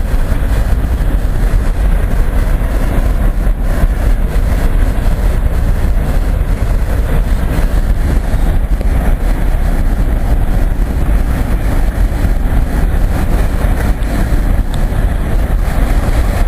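Freight train cars rolling past: a steady rumble of steel wheels on the rails, unchanging throughout.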